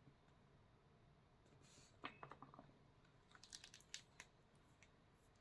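Near silence broken by faint small clicks and taps in two short clusters, about two seconds in and again about three and a half seconds in, with a brief soft rustle just before the first cluster.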